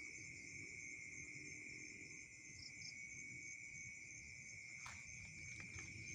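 Crickets and other insects trilling steadily in a continuous high-pitched chorus, faint, with a soft click about five seconds in.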